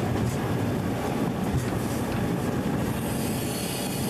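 A train running along the track, heard from aboard: a steady running noise of the wheels on the rails.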